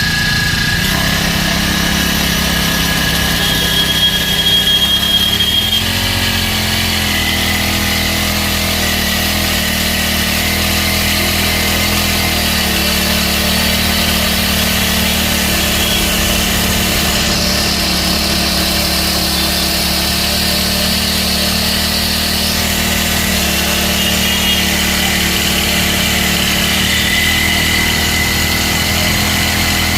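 Four-stroke petrol engine of a portable spray machine running steadily, a little louder for a moment about four to six seconds in.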